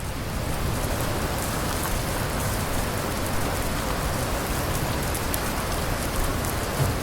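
Steady rain falling on a surface, with many individual drops ticking and a low rumble underneath.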